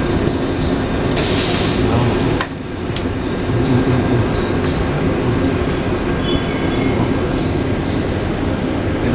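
Taipei Metro C381 electric train's steady hum with a thin, steady high whine. About a second in comes a short hiss of air, then a sharp click.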